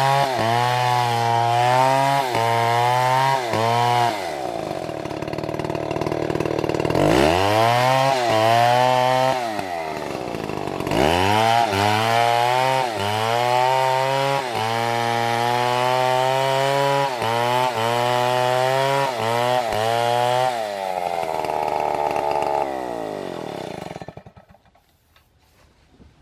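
Chainsaw cutting wood, its engine pitch repeatedly sagging and recovering as the chain bites under load. It eases off a few seconds in and revs up sharply twice. Near the end it winds down and stops.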